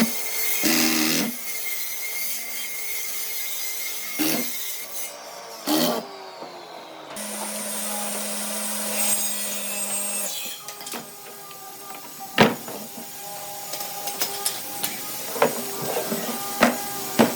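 Woodworking tools working timber, in short spliced clips: rubbing and sawing-like passes, a steady tool hum for about three seconds, a sharp knock about twelve seconds in and a run of smaller knocks near the end.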